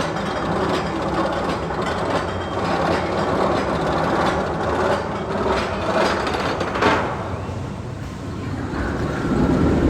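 Roller coaster train running on the track with a steady rumble, a sharp clack about seven seconds in, after which the rumble eases off.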